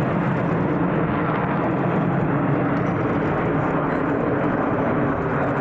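Steady engine noise of an aircraft in flight, even in level with no sudden changes.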